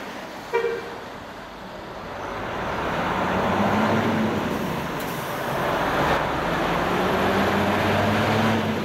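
A short horn toot about half a second in, then a Hino Selega coach's diesel engine and tyres growing louder over a couple of seconds and running steadily.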